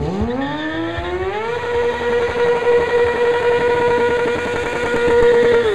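Kawasaki ZX-6R sport motorcycle's inline-four engine held at high revs during a burnout. The revs rise steeply over about a second and a half, hold at one steady high pitch for about four seconds, then drop near the end.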